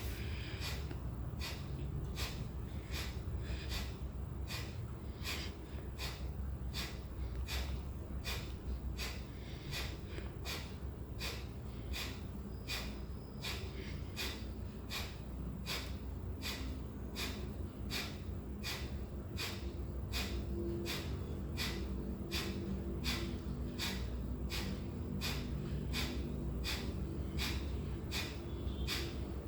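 Kapalbhati breathing: a steady rhythm of short, forceful exhalations through the nose, between one and two a second, each pushed out by a quick pull of the abdomen while the inhalations happen passively.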